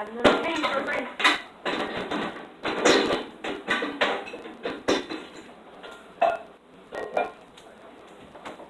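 Dishes and cutlery clattering: a run of irregular knocks and clinks, some ringing briefly.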